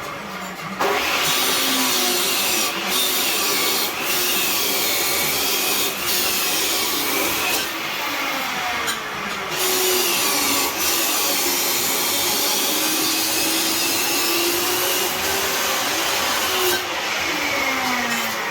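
A power tool working metal, a loud steady grinding noise with a motor whine that rises and falls as the load changes. It starts about a second in, with a few short dips.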